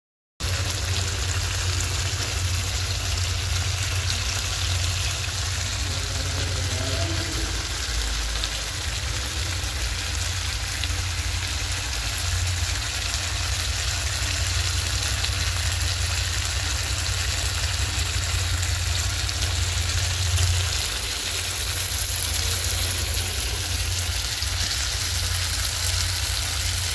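Chicken curry sizzling in a kadhai on the stove, a steady hiss over a low rumble; the rumble eases a little about twenty seconds in.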